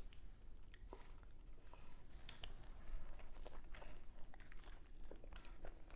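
A person chewing a mouthful of grilled burrito dipped in nacho cheese, close to the microphone: soft wet mouth sounds with scattered small clicks.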